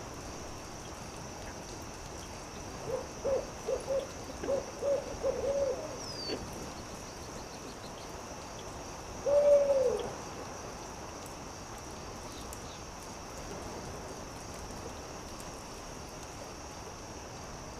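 An owl hooting: a quick run of about seven short hoots, then one louder, longer hoot that falls in pitch at the end. A steady hiss with a high insect-like hum and a few faint campfire crackles runs underneath.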